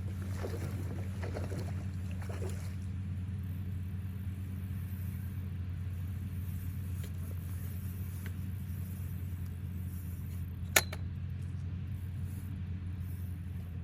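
A steady low rumble, with irregular scratchy noises in the first couple of seconds and a single sharp click about eleven seconds in.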